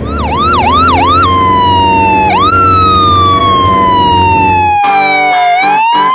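Emergency-vehicle siren: four quick yelping sweeps, then a long wail that slowly falls in pitch and begins to rise again near the end.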